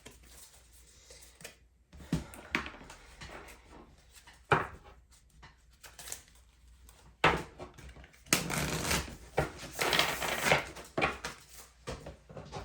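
Tarot cards being handled and shuffled: a few sharp card slaps, then a dense stretch of shuffling for a few seconds near the end.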